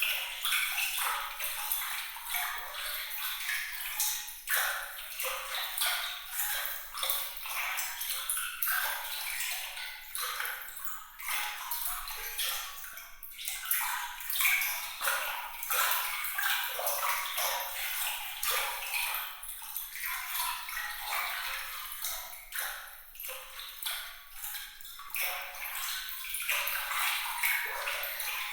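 Bright, glittering water: a continuous trickle and splash made up of many small drips and pings, all in the high range with no low rumble, rising and falling in level from moment to moment.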